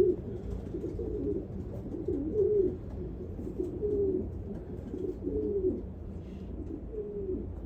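Racing pigeons cooing: a string of short, low, wavering coos about every second, over a steady low hum.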